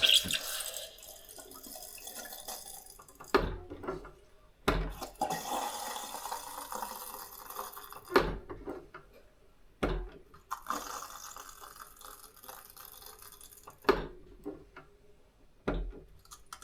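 Beer engine (hand pump) pulling a pint of real ale: three long pulls, each a hissing splash of beer into the glass, with sharp knocks between them as the handle is worked.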